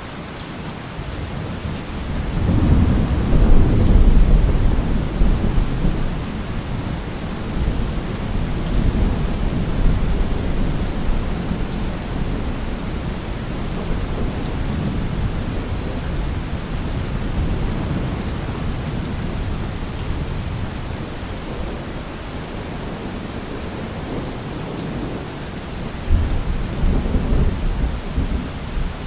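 Thunderstorm: steady heavy rain with rolling thunder. A long low rumble builds about two seconds in, peaks soon after and rolls on unevenly for several seconds, and a second, more sudden thunder clap breaks in near the end.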